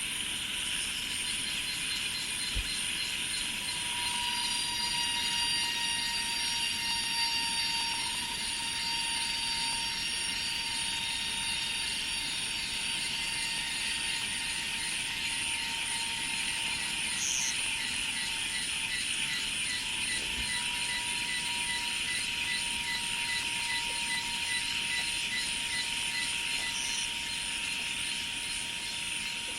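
Chorus of insects such as cicadas in rice fields: a steady, layered buzzing and rapid trilling at several pitches at once, over a lower, steady whistle-like tone, with no let-up.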